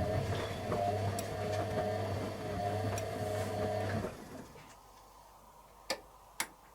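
Candy Aquamatic 100F washing machine's motor turning the drum with a steady hum, which stops about four seconds in. Two sharp clicks follow near the end.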